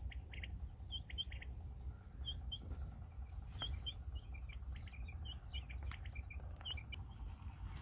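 Small birds chirping in short high notes, in pairs and clusters that come more often in the second half, over a steady low rumble.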